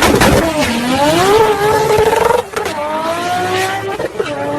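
Toyota Supra's turbocharged straight-six accelerating hard through the gears, with a few sharp exhaust crackles at the start. The pitch climbs, falls at a gear change about two and a half seconds in, climbs again and falls at another shift near the end.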